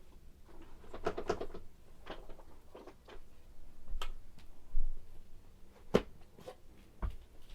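Light clicks, taps and knocks of objects being handled, a cluster of them about a second in and a few sharper single knocks later on.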